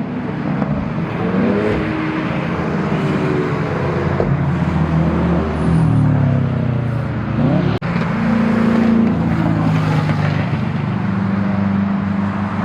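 Car engines accelerating and revving as cars drive past one after another, their engine notes rising and falling, over tyre and road noise.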